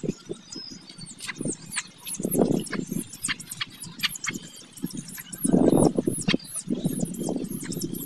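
Small birds chirping rapidly in high, falling notes throughout, with a few dull low noises, the loudest a little past the middle.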